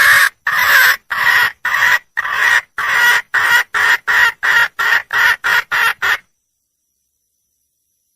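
Wild junglefowl hen calling for a mate: a long drawn call, then a series of about eleven short repeated calls that come shorter and quicker, stopping abruptly about six seconds in.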